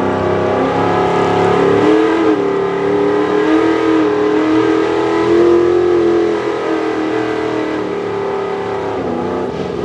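Pro stock 4x4 pulling truck's engine run hard under load, its note climbing about two seconds in and wavering as the revs flare, then easing off over the last few seconds. The rev flare is the tyres spinning on a slick track, the truck losing bite and slipping.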